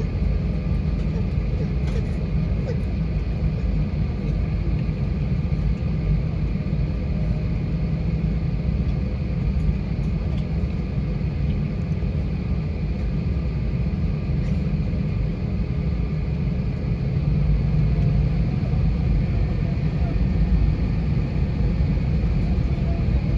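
Steady cabin noise inside an Airbus A320-232 with IAE V2500 engines running at low power: a deep rumble with a faint engine whine and air-conditioning hiss, growing a little louder about two-thirds of the way through.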